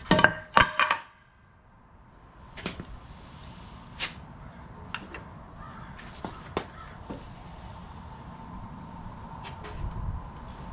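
Light metal clicks and knocks, one every second or so, over a faint steady hiss, from hands and tools working on the excavator's thumb linkage. A brief loud, harsh tonal sound comes right at the start.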